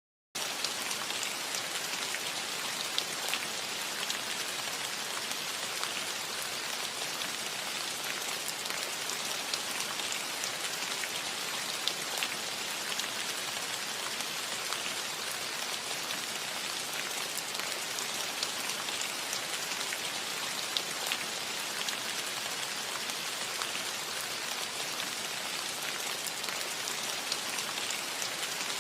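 Steady rain falling on a cottage roof: an even hiss with many scattered sharper drop ticks.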